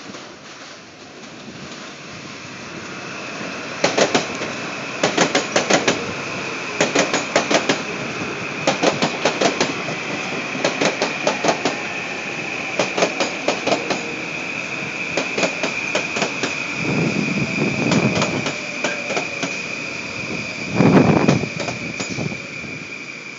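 Metro-North electric multiple-unit commuter train passing at speed close by. Its wheels click over the rail joints in quick groups of beats, about one group a second, over a steady high whine. Two low whooshes come near the end as the cars go by.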